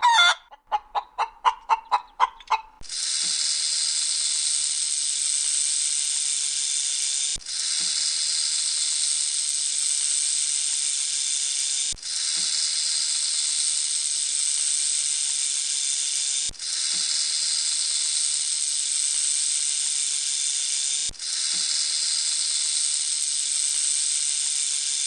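A hen clucking in quick repeated notes, then a loud, steady hiss that breaks briefly and restarts about every four and a half seconds.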